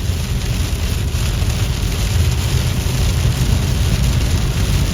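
Steady engine and road noise heard from inside a moving car's cabin, a constant low rumble with a hiss over it.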